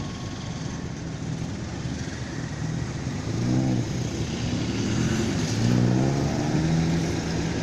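Engine running over a steady rumble, its pitch rising and falling briefly about three and a half seconds in and again a little later, then holding steady near the end.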